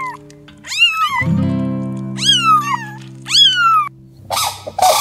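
Kitten meowing: three high, thin mews that rise and then fall, over background music with plucked guitar notes. Near the end the mews give way to a steady rushing noise.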